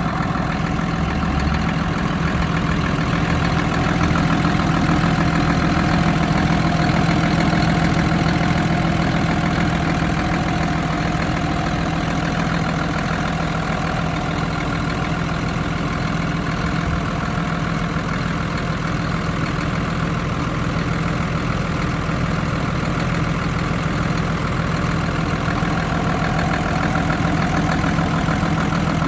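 Hino J08E-VB inline-six turbo-diesel truck engine idling steadily, an even low hum with no revving.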